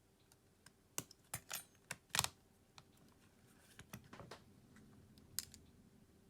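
Small repair tools and phone parts clicking and tapping against each other while a smartphone is taken apart: a run of sharp, irregular clicks, the loudest about two seconds in, with a small cluster around four seconds.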